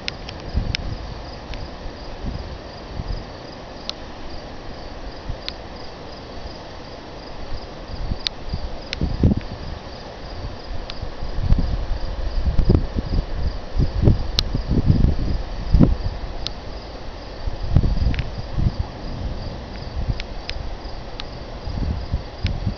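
Crickets chirping in a steady, fast-pulsing high trill, over irregular low rumbles and bumps that are loudest in the middle stretch.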